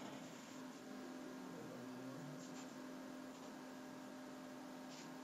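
Low, steady electrical hum with a few faint soft clicks or rustles scattered through it.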